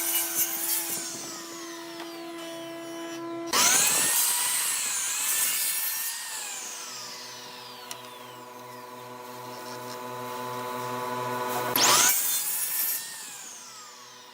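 Wood lathe running, with a turning tool cutting into the spinning wood in bursts that start suddenly about three and a half seconds in and again near the end. Between cuts the lathe runs with a steady hum.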